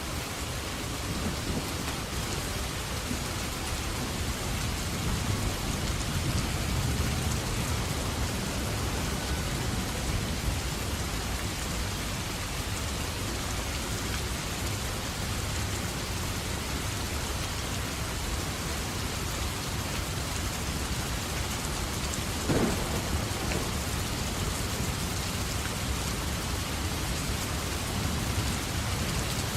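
Steady heavy rain with a low rolling rumble of thunder, and one sharp crack about three-quarters of the way through.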